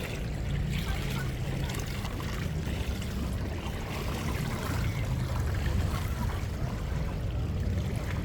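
Water running from a poolside shower, a steady splashing hiss, under a low rumble of wind on the microphone.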